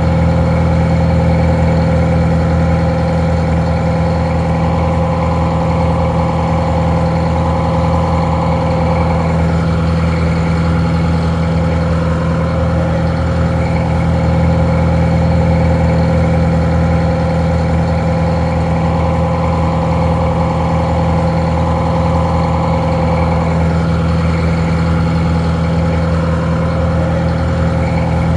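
Detroit Diesel 4-71 two-stroke four-cylinder diesel idling steadily, with a constant low drone. It sounds somewhat muffled.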